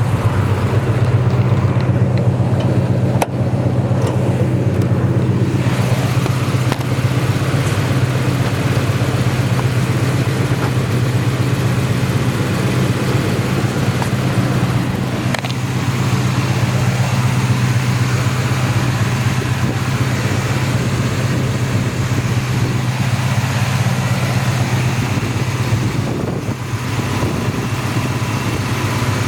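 Oldsmobile Rocket 350 V8 idling steadily through long-tube headers and Flowmaster mufflers.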